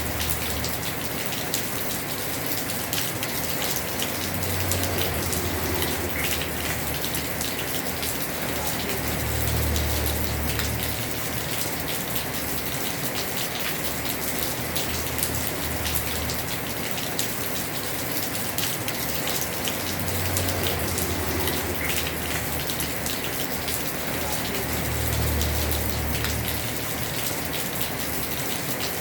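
Heavy rain on a house roof: a steady, dense hiss of water with countless small drop ticks. A low rumble swells and fades four times underneath.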